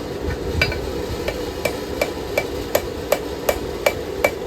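Forging hammer striking hot knife-blade steel on an anvil in a steady rhythm, a little under three blows a second, starting about half a second in. Each blow gives a short metallic ring.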